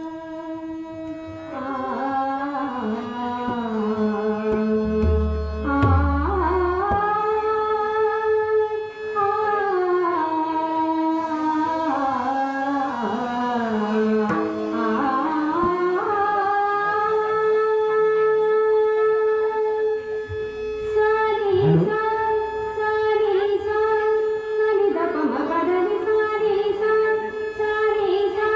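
A women's bhajan group singing a Marathi devotional bhajan with instrumental accompaniment; the melody glides between notes and settles into a long held note in the second half.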